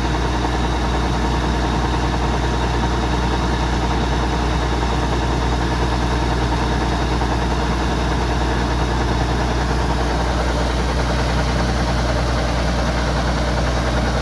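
Kubota DC-105X combine harvester's diesel engine and machinery running steadily at a constant pitch and level.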